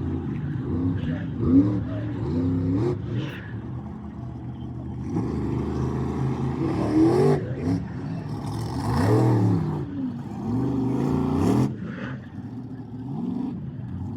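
Monster truck engine revving hard again and again, its pitch climbing and falling every second or two.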